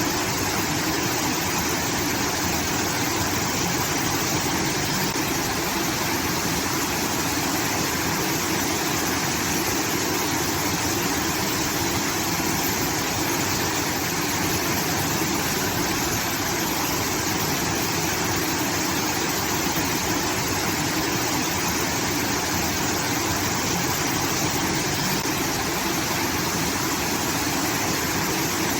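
Water pouring and rushing steadily from a rice-field irrigation outlet, a continuous, unchanging sound like a small waterfall.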